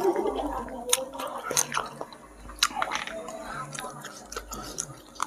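Close-miked wet chewing and lip-smacking of a man eating goat-head curry, biting and sucking meat off the goat's skull, with scattered sharp mouth clicks.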